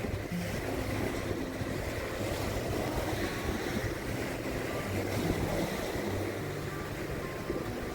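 Gentle waves washing continuously onto a sandy beach, with wind buffeting the microphone.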